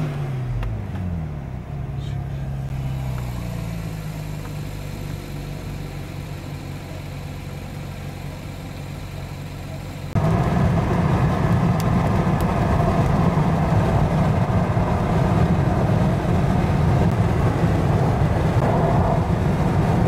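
An engine whose pitch drops over the first few seconds, then runs steadily. About halfway through, a loud low rumble cuts in suddenly and continues.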